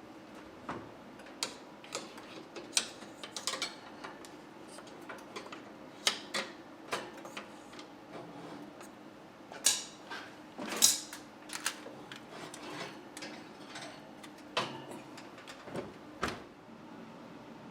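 Irregular light clicks, taps and knocks of dishes and utensils being handled and set down in a kitchen, the loudest cluster about ten to eleven seconds in.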